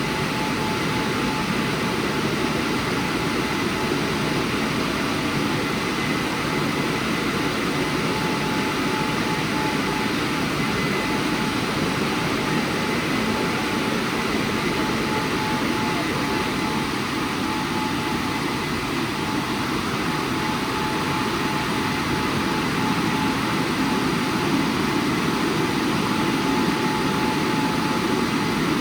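WashTec SoftCare² Pro rollover car wash running a programme: a loud, steady rushing noise with a thin constant whine, without a break.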